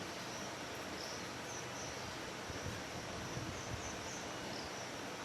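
Steady background hiss with a few faint, short high chirps scattered through it.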